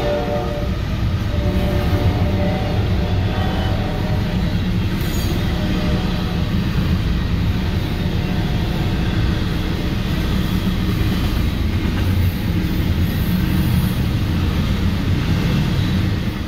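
Intermodal freight train passing close by: a locomotive horn chord dies away in the first second, then the trailing diesel locomotives and double-stack container cars go by with a steady, loud rumble of wheels on the rails.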